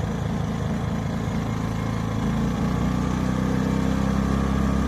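Ducar 2.5 kW portable generator's engine running just after a cold start on choke. It runs unevenly for about the first two seconds, then settles into a steady hum.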